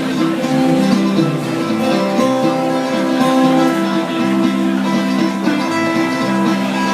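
Live band playing an instrumental passage, led by plucked acoustic guitar.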